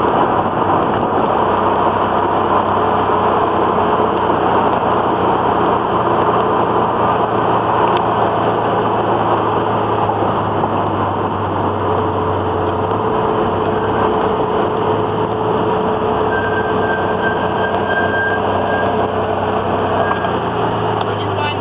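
Datsun Z car driving, its engine and road noise heard from inside the cabin as a steady drone. The engine note shifts about thirteen seconds in and again near the end.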